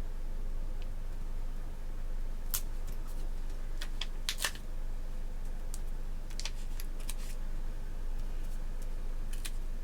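Paper and sticker sheets being handled on a planner: scattered light clicks and crackles, a few at a time, over a steady low hum.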